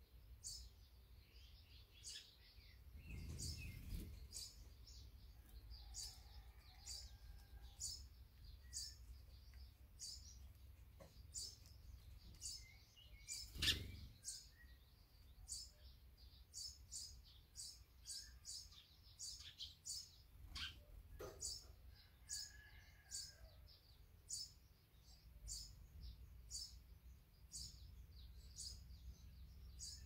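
Faint, short, high-pitched bird chirps repeated steadily, more than once a second, from small songbirds. A single sharp, louder knock sounds about halfway through, and a low rumble comes near the start.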